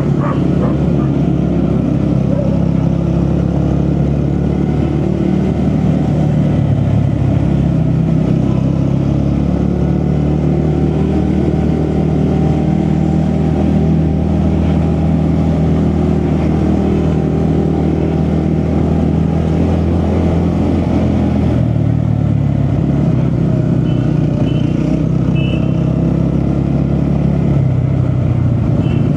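Vehicle engine running at a steady cruise on the road, with road and wind noise over it. The engine note eases off briefly about two-thirds of the way through, then carries on.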